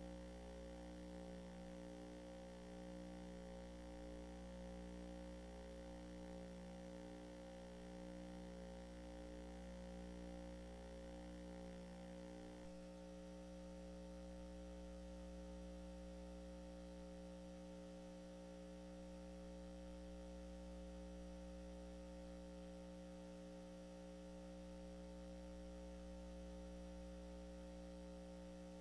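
Faint steady hum made of several held tones, near silence, that shifts abruptly once about thirteen seconds in.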